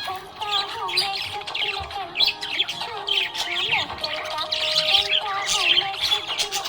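Budgerigars chirping and chattering in a continuous stream of quick, high chirps and squawks.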